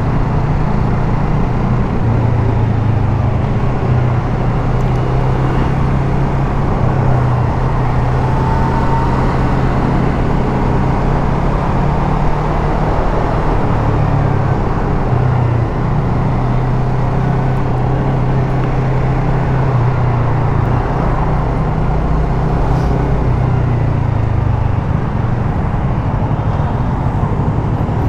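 Yamaha MT-03's parallel-twin engine running steadily on the road, with wind and traffic noise over it.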